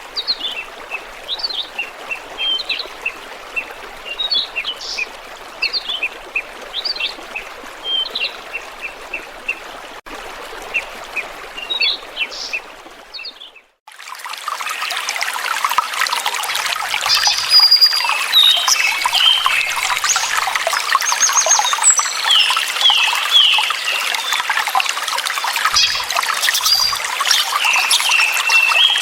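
Water running and trickling with small birds chirping over it. About halfway through the sound dips away for a moment, and a louder trickle of water with more birdsong comes in.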